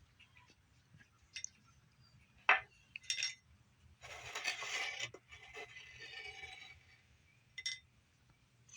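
An animal feeding from a dish: a few sharp clinks and scrapes, the loudest about two and a half seconds in, then a few seconds of scratchy rustling.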